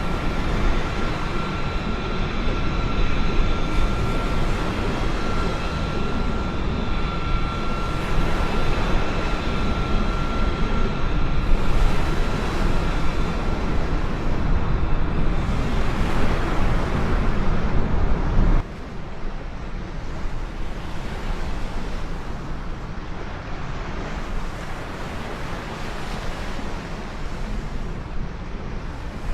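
Jet aircraft engine noise, a loud even rush with a steady high whine over it at first. About two-thirds of the way through it cuts abruptly to a quieter, thinner rush with less low rumble.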